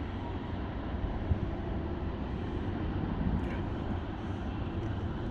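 Steady low rumble of a heavy Canadian Pacific freight train hauled by six diesel locomotives.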